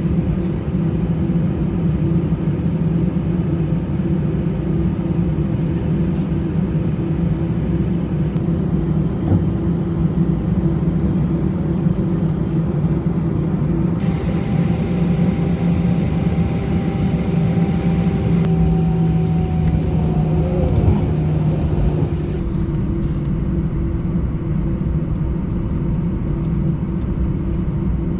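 Airbus A320 cabin noise: a steady engine and airframe rumble with a low hum. About halfway through a higher whine joins in, sinking slightly in pitch, and fades out about two-thirds of the way through.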